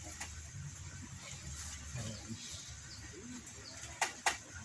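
A bird cooing, with two sharp clicks close together near the end.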